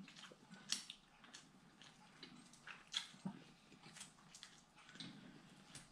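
Faint eating sounds: quiet chewing with short, wet mouth clicks, scattered irregularly.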